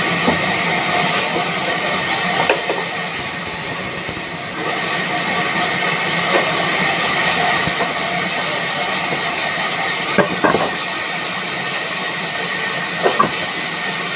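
Sawmill machinery running: a steady loud hiss with a thin steady whine, and a few short knocks, a pair about ten seconds in and another near the end.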